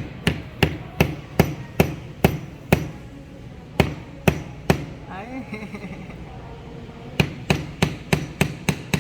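Hammer striking nails into a wooden birdhouse kit: a run of sharp, even blows about three a second, a short break, three more, a pause of about two seconds, then another quick run of blows near the end.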